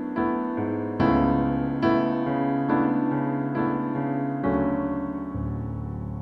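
Slow, soft background music played on a piano-style keyboard: chords struck about once a second, each fading before the next.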